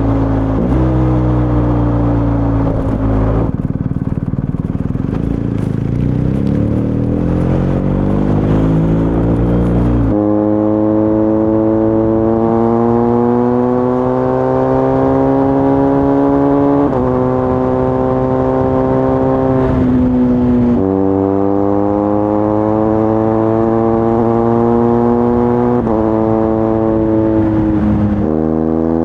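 BMW R1250 GS Adventure's boxer-twin engine through an Akrapovič titanium slip-on exhaust, heard while riding. The pitch falls at first, then climbs through the gears, dropping sharply at each of four upshifts.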